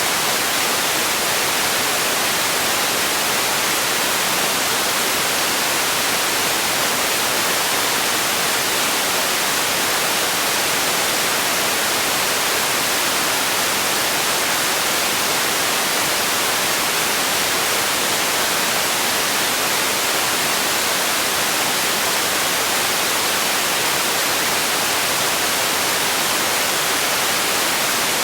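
Steady white noise used as a sleep and relaxation sound: an even, bright hiss that never changes in level or character.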